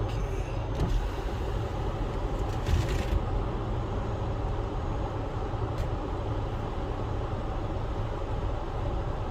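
Car running, heard from inside the cabin as a steady low rumble, with a brief rustle about three seconds in.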